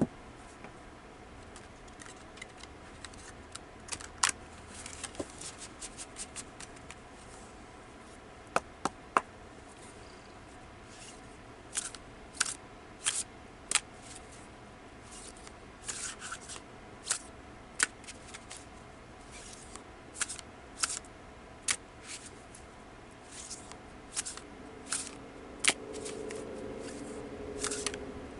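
A deck of tarot cards being handled and shuffled: a string of sharp card snaps and clicks at irregular intervals.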